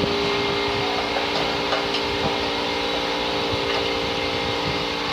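Steady mechanical hum holding several fixed tones, with a few faint clicks.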